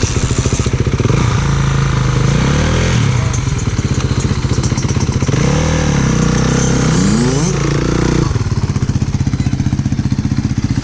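2016 Kawasaki KX450F dirt bike's single-cylinder four-stroke engine running, revved up and down several times, then settling to a steady idle about eight seconds in.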